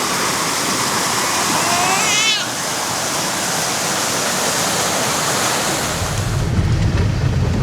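Fast-running floodwater rushing steadily. A short rising, wavering whistle-like tone comes about two seconds in, and from about six seconds wind buffets the microphone with a low rumble.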